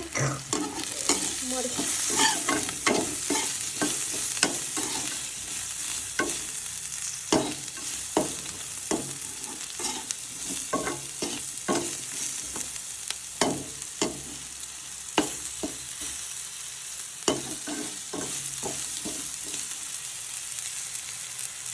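Food frying and sizzling in a black karahi (wok) while it is stirred, a spoon clinking and scraping against the pan at irregular intervals over a steady hiss.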